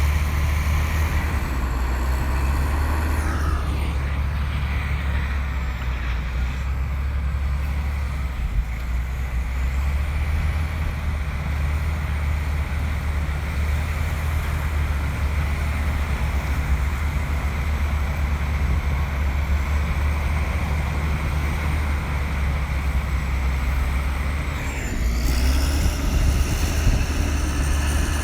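Bulldozer's heavy diesel engine running with a steady deep rumble. Its note drops a few seconds in and climbs again near the end as engine speed changes.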